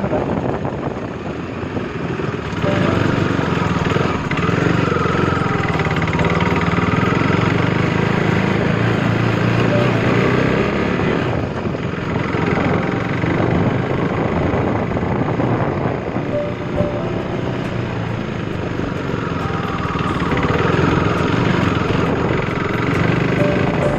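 Motorcycle engine running while riding, climbing in pitch as it revs up twice, about four seconds in and again about twenty seconds in, then easing off.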